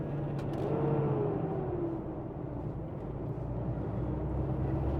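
Semi truck's diesel engine running, heard inside the cab: a steady low drone with a fainter whine that falls in pitch about a second in.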